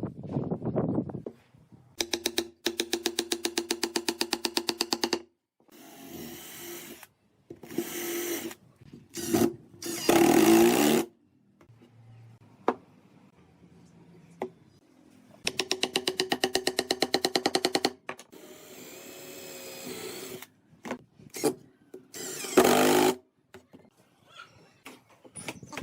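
Woodworking power tools worked in short takes, each cut off suddenly. A machine with a rapid, even pulsing and a pitched hum runs for about three seconds, twice, and shorter noisy bursts of tool-on-wood come in between.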